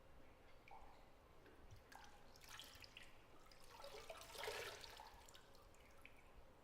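Faint water drips and small stirrings of bathwater in a tub, with two brief bouts of gentle sloshing, the louder one about four and a half seconds in.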